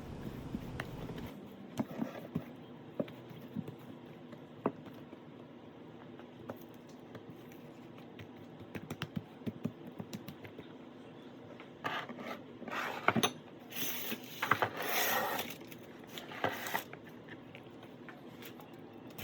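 Hands rubbing five-spice powder into the skin of a raw whole duck: faint scraping and scratching with scattered small ticks, then several louder rustling scrapes in the second half.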